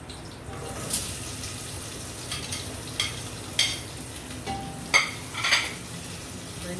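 Chopped onion, garlic, shallot and sweet pepper sizzling in hot oil, with a spoon stirring and scraping against the pot about six times.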